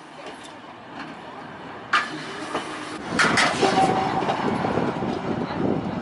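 Volks Electric Railway car running on its narrow-gauge track: a sharp click just before two seconds in, then from about three seconds a louder rumble of wheels on rail with a run of clicks.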